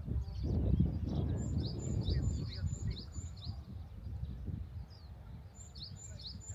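A small bird chirping in quick, high, repeated notes, about three a second, starting about a second and a half in, with another short run near the end, over a low outdoor rumble.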